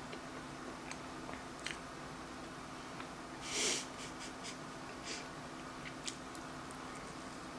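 A person chewing a gooey s'mores brownie with her mouth closed: soft, scattered wet mouth clicks, with one louder sharp breath about three and a half seconds in, over a faint steady hum.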